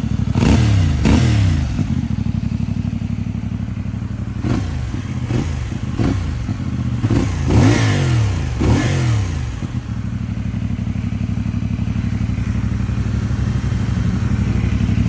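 CFMoto 450MT's parallel-twin engine running through its stock exhaust, blipped in a series of short revs that each rise and fall back. It then settles to a steady idle for about the last five seconds.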